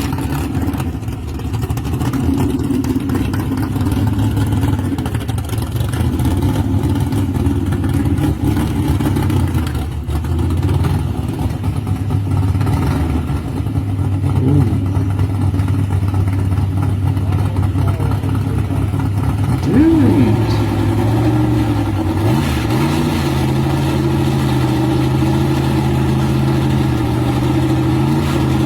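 Drag-racing car's engine idling steadily, with a brief rise in pitch about twenty seconds in, after which it holds a slightly higher note.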